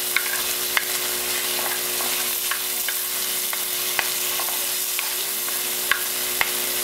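Chopped tomatoes, onion and garlic sizzling in a frying pan as they are stirred with a plastic spoon. The sizzle is a steady hiss, broken by a few sharp clicks about a second apart or more.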